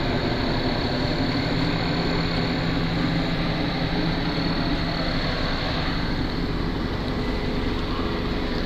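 Helicopter circling overhead: a steady drone of rotor and engine that holds level throughout.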